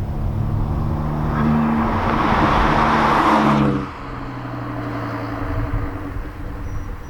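Volvo V70 2.5T's turbocharged inline five-cylinder running through a catless downpipe and straight-piped exhaust, the raspy exhaust note building louder for about three seconds under throttle. It drops off sharply just past the middle and settles to a lower, steady drone.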